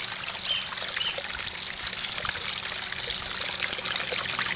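Small garden-pond waterfall splashing and trickling steadily into the pond.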